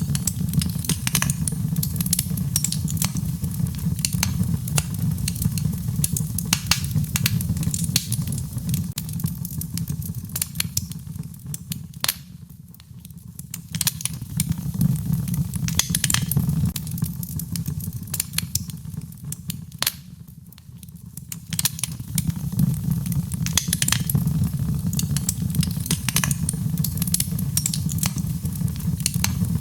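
Wood fire crackling, with frequent sharp pops over a steady low rumble of flame. The sound thins out briefly twice, around twelve and twenty seconds in.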